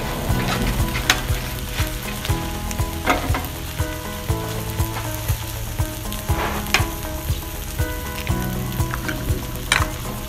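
Fried rice and beef short ribs sizzling steadily on a flat-top steel griddle, with scattered sharp clicks and taps throughout.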